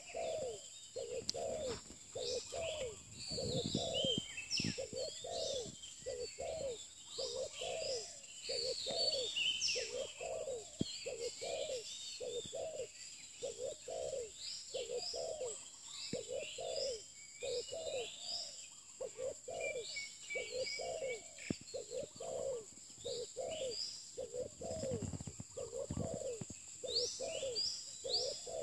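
Spotted dove (terkukur) cooing over and over in a steady series of low coos, with small birds chirping higher above it and a steady high-pitched whine throughout.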